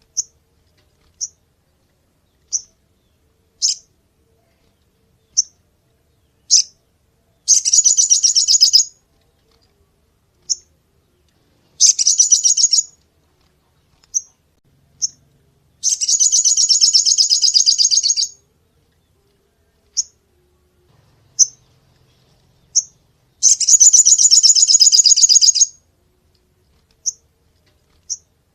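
Sogon songbird singing: short, sharp, high chirps about once a second. These are broken by four rapid rattling trill bursts of one to two and a half seconds, the longest in the middle and another near the end.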